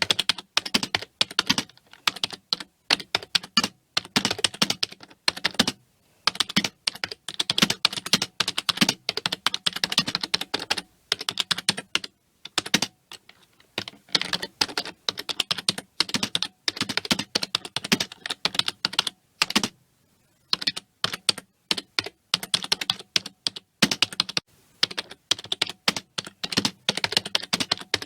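Fast typing on a computer keyboard: rapid key clicks in bursts, broken by brief pauses about halfway through and again about two-thirds of the way through.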